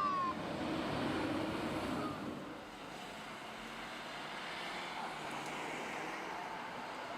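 Busy street traffic running steadily, with the end of an emergency vehicle's siren sweeping down in pitch and cutting off just at the start.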